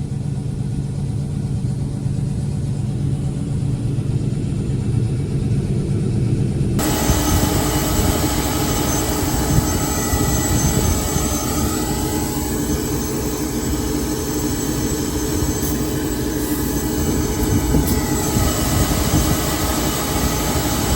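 Combine harvester machinery running steadily during corn harvest, a continuous engine and mechanical drone. About seven seconds in the sound changes abruptly, becoming brighter and louder with more hiss, and stays that way.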